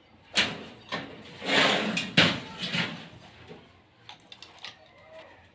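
Knocks and a scraping rustle from handling the cotton candy machine's plywood and sheet-metal parts during assembly, with a louder knock about two seconds in and a few light clicks near the end.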